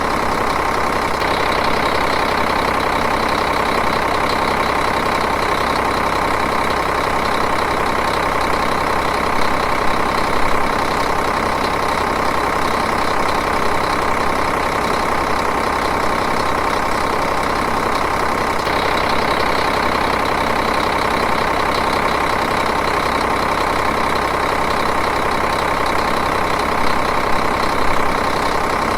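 Diesel engine idling steadily and evenly, with two slight brief swells in loudness, one about a third of the way in and one near the end.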